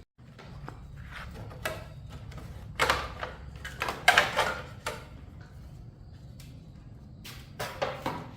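Clatter of tools and metal parts being handled during a motorbike repair: a run of knocks and scrapes, loudest about three and four seconds in, over a steady low hum.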